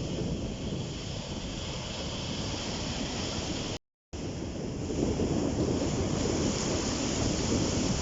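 Sea waves breaking and washing on the shore, with wind buffeting the microphone. The sound cuts out completely for a moment about halfway through, then comes back a little louder.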